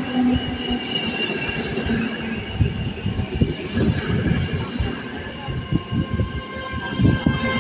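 Passenger coaches rolling past on the rails, with many irregular knocks as the wheels run over rail joints and points, and a thin wheel squeal that fades out in the first second.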